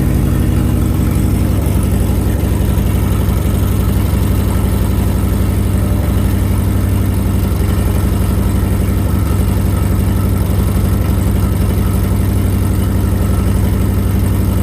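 1987 Nissan 200SX S12 Silvia's engine idling steadily while its ECU's mass airflow settings are being tuned.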